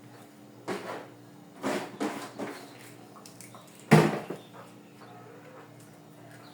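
Knocks and clatter of household things being handled and set down, in a small room, with the loudest thump about four seconds in.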